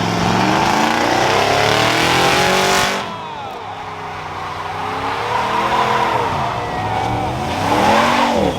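A truck engine revving up and down several times over its idle. A loud hiss runs with the first rev and cuts off suddenly about three seconds in.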